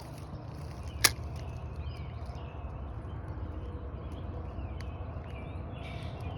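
Outdoor ambience with birds chirping, over a steady low rumble, and one sharp click about a second in.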